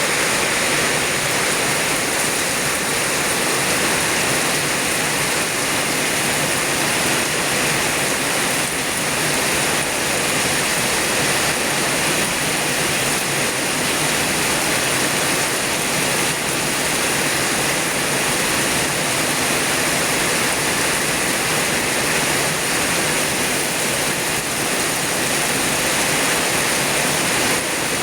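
Heavy rain pouring down in a steady, loud hiss that does not let up.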